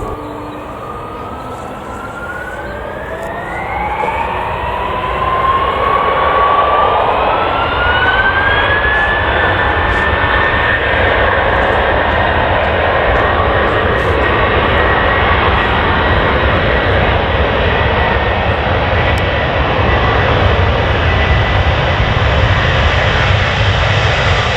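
Jet airliner's turbofan engines spooling up for takeoff: a whine rising in pitch and growing louder over the first several seconds, then holding steady at takeoff power over a low rumble.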